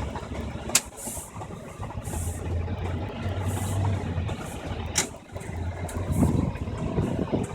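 1997 Isuzu NPR truck's rebuilt engine running, a low rough drone, with two sharp clicks, one about a second in and one about five seconds in.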